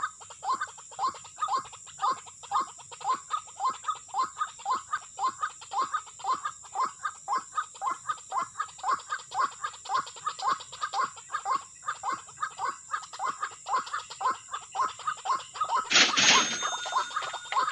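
White-breasted waterhen calling, a fast unbroken run of short 'ruak' notes about three a second. A steady high hiss runs underneath, and a loud crackling burst of about a second comes near the end.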